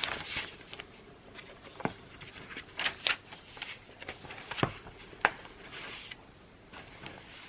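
Writing by hand on paper: irregular short scratchy strokes of a pen or pencil tip, broken by several sharp taps and clicks.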